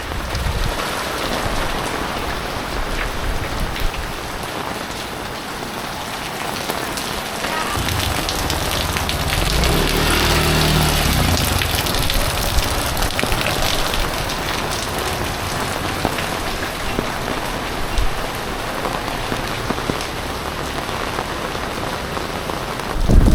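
Heavy typhoon rain falling steadily and splashing on surfaces. A low drone rises and fades in the middle.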